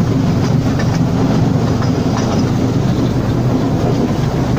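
Wulai's small narrow-gauge sightseeing train running along its track, heard from on board: a steady low rumble with faint scattered clicks from the wheels on the rails.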